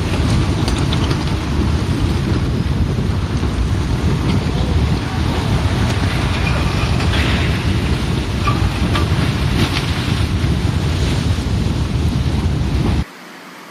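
Mudslide (debris flow) coming down a mountain: a loud, steady, dense rumbling rush, heaviest at the low end. It cuts off suddenly near the end.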